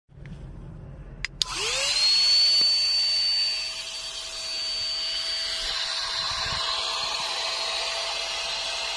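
Portable cordless mini vacuum cleaner switched on with a click about a second in, its motor spinning up in a rising whine and then running steadily with a high whine over the rush of air, a little quieter from about four seconds.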